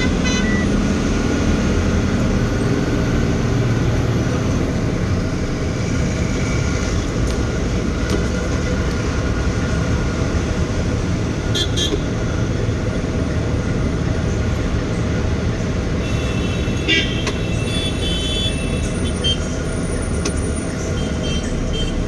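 Tata Signa trailer truck running down the road, a steady low engine and road rumble. Toward the end come a few short, high-pitched tones and clicks.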